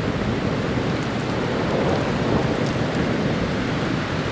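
Heavy rain pouring steadily, with a low rumble of thunder that keeps going.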